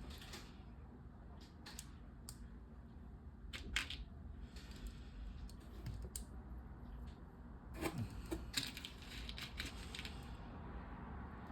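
Small plastic LEGO pieces clicking and rattling as they are handled and pressed together. There are scattered sharp clicks, the loudest about four seconds in, and a quick run of them around eight to nine seconds.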